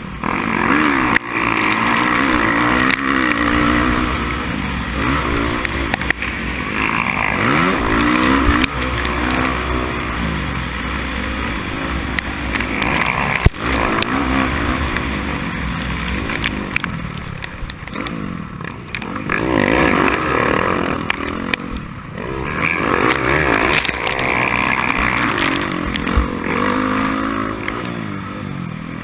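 Race motorcycle engine revving up and down over and over, its pitch rising and falling every second or two as the throttle opens and closes, with occasional short knocks.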